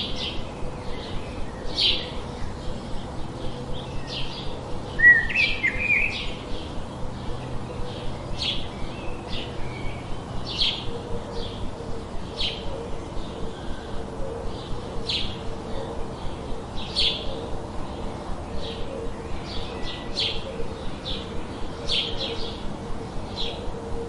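Birdsong: short, high chirps repeated about once a second, with a louder twittering call about five seconds in, over a steady background hiss.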